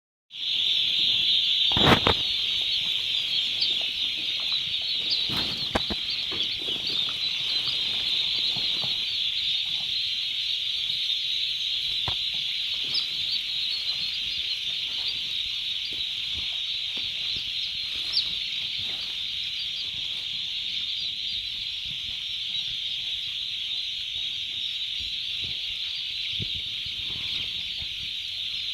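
Dense, continuous high peeping of a brood of one-day-old turkey poults, many chicks calling at once, with a few short knocks, the loudest about two seconds in.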